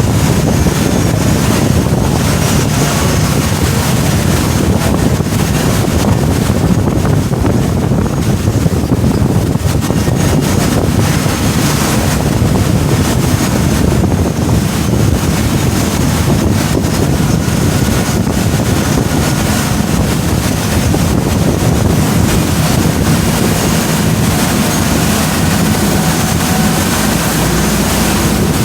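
Steady wind noise on the microphone over the running engine of a boat underway, with the wash of water along the hull.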